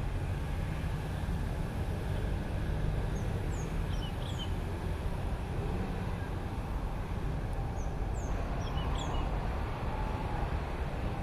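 Steady low outdoor rumble, with a small bird giving short high chirps several times, in two spells in the first and second halves.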